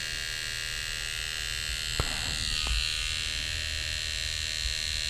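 Electric hair trimmer buzzing steadily close to the microphone while lining up a beard, with two short clicks about two seconds in.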